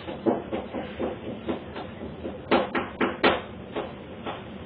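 A series of irregular light knocks and clicks of small objects being handled, with a quick cluster of the loudest about two and a half to three and a half seconds in.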